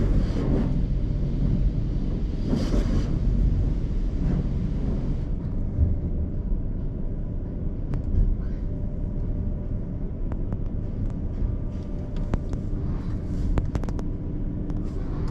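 Automatic conveyor car wash heard from inside the car: a steady low rumble, with a hiss over it for about the first five seconds, then scattered clicks and knocks.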